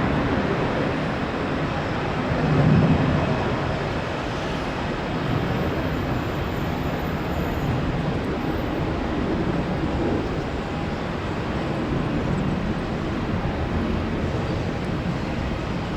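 Jet engines of a Boeing 787 Dreamliner on its landing approach, a steady noisy roar, mixed with strong wind buffeting the microphone. The sound swells louder at the low end about three seconds in.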